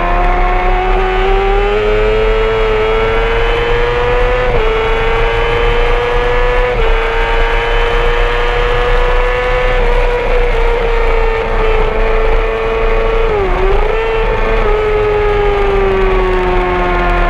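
Honda CBR600RR inline-four engine running at high revs on track, its high whine held nearly steady with small steps in pitch, a quick drop and blip about thirteen seconds in, then easing off near the end.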